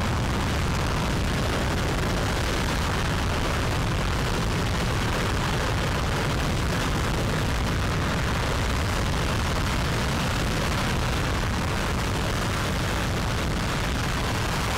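RS-25 liquid-hydrogen/liquid-oxygen rocket engine firing steadily on a test stand: a loud, unbroken noise that holds even throughout.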